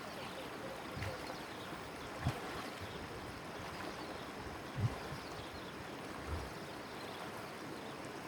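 Water trickling and lapping around a small boat in a steady wash of noise, with a few dull low knocks against the boat.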